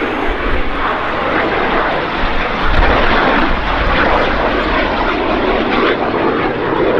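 BAC 167 Strikemaster jets flying a display pass, their turbojet engines making a loud, steady jet noise.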